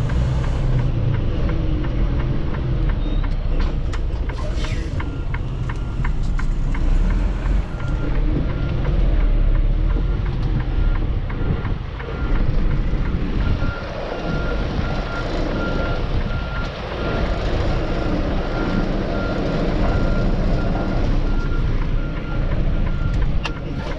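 Semi truck's diesel engine running while reversing a trailer into a loading dock, with a reverse alarm beeping in an even series from about five seconds in.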